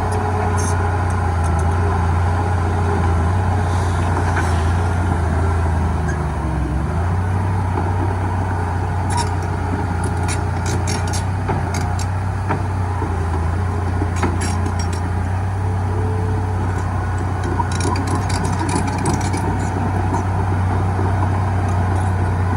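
Diesel engine of a Komatsu D31 bulldozer running steadily, its note shifting slightly about six and a half seconds in, with scattered light metallic clicks throughout.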